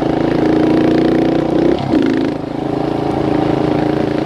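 Kawasaki KLX125L dirt bike's small four-stroke single-cylinder engine running steadily, with a brief wobble in pitch about two seconds in.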